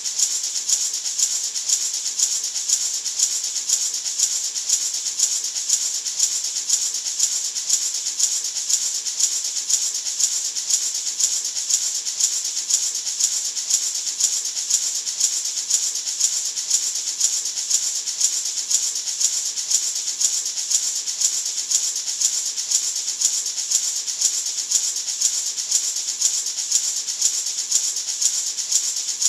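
Gourd maraca shaken in a steady, even rhythm: a continuous bright, hissing rattle with a regular pulse on each shake.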